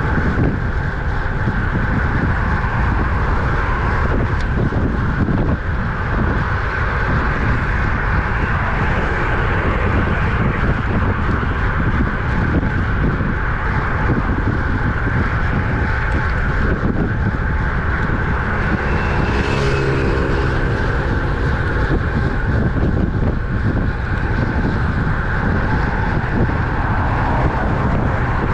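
Steady wind rush on a bicycle-mounted camera microphone while riding at road speed, mixed with tyre and road noise. About two-thirds of the way in, a brief pitched sound with a short hiss passes.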